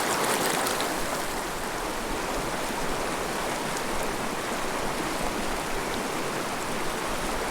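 Mountain river rushing over rocks: a steady, even wash of water noise.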